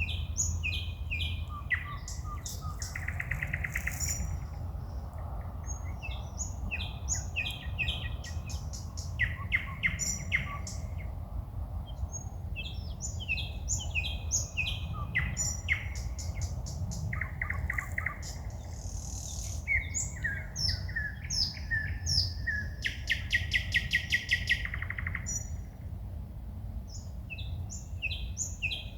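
Songbirds singing at night: a continuous run of varied whistled and chattering phrases. Near the end comes a fast, loud series of repeated clicking notes. A steady low rumble lies underneath.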